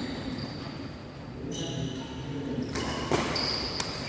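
Badminton rally on an indoor court: shoes squeaking on the court floor in short high squeals, and two sharp hits near the end as racket strikes shuttlecock, echoing in the hall.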